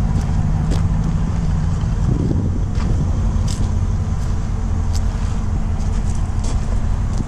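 A 2021 Dodge Durango R/T's 5.7-litre Hemi V8 idling steadily, with a few faint clicks over it.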